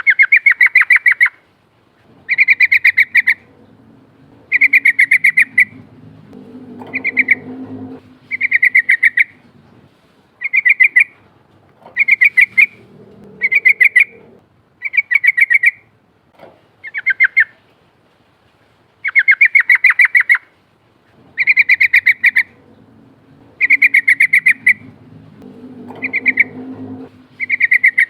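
Yellow-vented bulbul (trucukan) singing its rolling song: loud phrases of fast, rattling notes, each about a second long, repeated every two seconds or so. A faint low rumble sits under the song twice.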